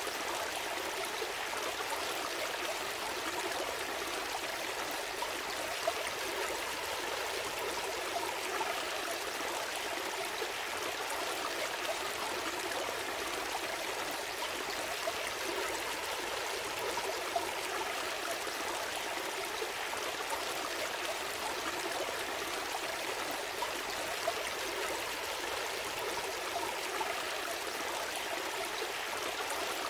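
Small stream flowing steadily over stones, a continuous babble with occasional brief splashes.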